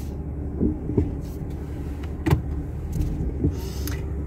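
Car driving along a road, heard from inside the cabin: a steady low rumble of engine and tyres, with several sharp knocks and rattles from bumps in the road.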